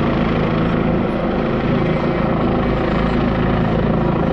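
Helicopter hovering, its rotor and engine running steadily and loud.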